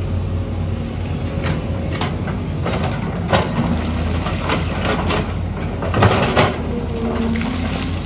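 Heavy excavator's diesel engine running steadily, with sharp metallic clanks and scrapes from the working machine, loudest about three seconds in and again around six seconds in.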